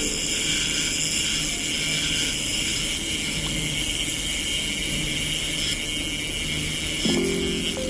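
Steady airflow hiss from a hot-air rework station blowing on the phone's circuit board, heating the solder of the audio-circuit shield to lift it off. A short low tone sounds about seven seconds in.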